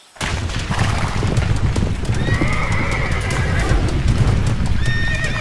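A herd of horses galloping: a dense, steady rumble of hoofbeats that starts suddenly just after the beginning, with a horse whinnying about two seconds in and again near the end.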